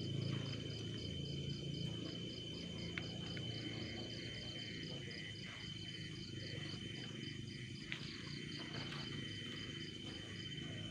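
Crickets chirping in a quick pulsing rhythm, about four chirps a second, alongside a steady high insect tone, over a low steady rumble.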